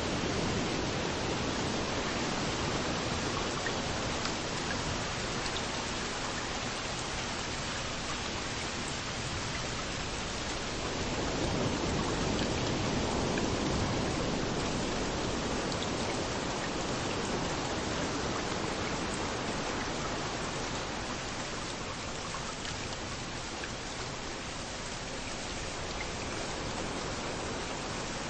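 Steady rain hiss over surf washing onto a beach. About halfway through, a wave swells in, the sound growing fuller and a little louder before easing off again.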